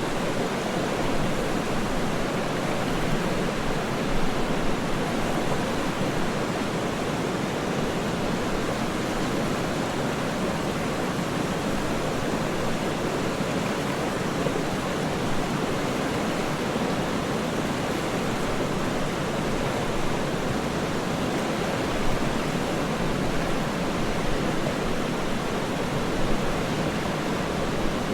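Waterfall: a steady, unbroken rush of falling water with slight ripples in level and no distinct splashes or other events.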